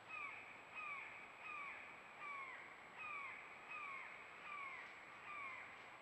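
A bird calling a series of about eight evenly spaced, falling calls, roughly one every three-quarters of a second.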